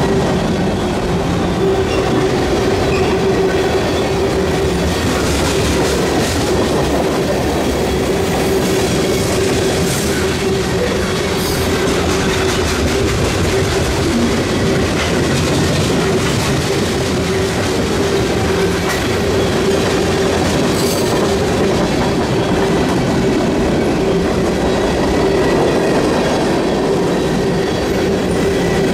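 Freight train cars rolling past at speed: a steady rumble and clatter of steel wheels on the rails, with a steady tone running underneath and a few sharp clanks from the cars partway through.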